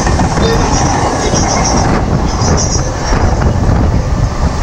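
Mumbai suburban electric local trains running side by side at speed, heard from an open doorway: a steady rumble of wheels on the track with rushing wind.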